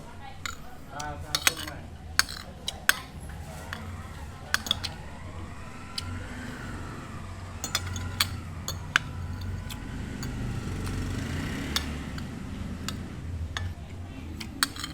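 Cutlery and dishes clinking in sharp, scattered knocks, over a steady low hum and faint voices.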